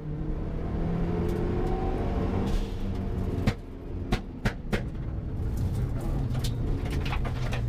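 Mitsubishi Lancer Evolution IV's turbocharged four-cylinder engine heard from inside the cabin, pulling hard under load. About three and a half seconds in it briefly drops away, with a sharp crack and a few more quick cracks over the next second, then it pulls steadily again.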